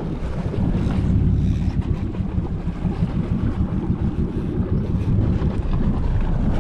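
Steady low rumble of wind buffeting the microphone aboard a boat, with faint hiss above it.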